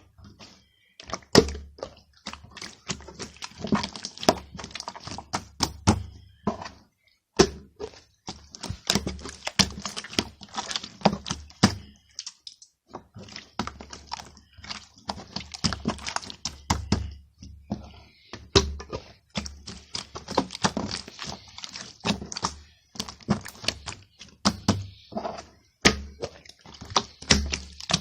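Dense, irregular tapping and clicking, several sharp knocks a second, with two short breaks partway through.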